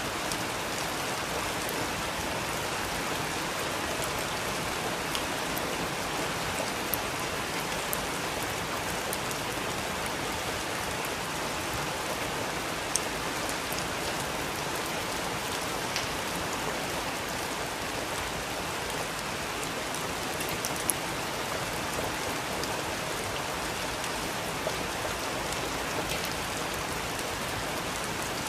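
Steady rain falling, with a constant hiss and scattered sharper drips of individual drops hitting a surface.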